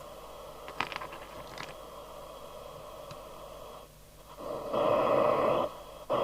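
Hiss from a CB radio's loudspeaker, with a couple of sharp clicks about a second in. Near the end the hiss swells much louder twice, with a brief cut between. No signal comes through: the set is dead on receive.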